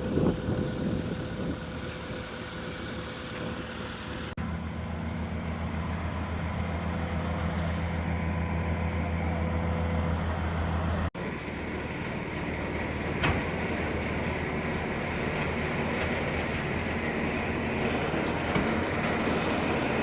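Engine running steadily, in several clips joined by abrupt cuts about four and eleven seconds in. The middle clip has a stronger, steadier low hum.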